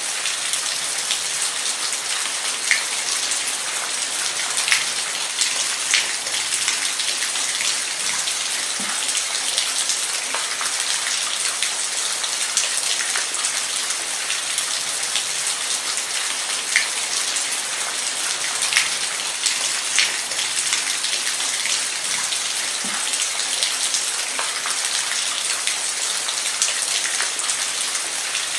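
Steady rain falling on a hard surface, an even hiss with individual close drops standing out as sharp ticks every second or so.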